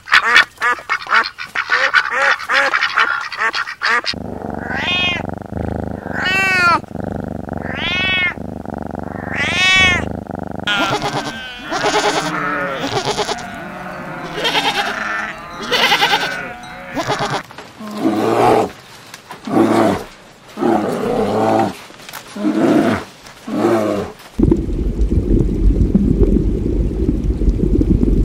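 A flock of domestic ducks quacking together, then a string of high, arching calls repeated about every second and a half. Next comes a series of loud separate goat bleats, and near the end a low steady rumble.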